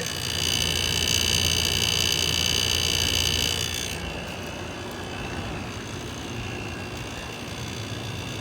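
Old window air conditioner running with a loud low hum and a steady high-pitched whine; the whine and much of the hum cut off sharply about four seconds in, leaving a quieter steady hum.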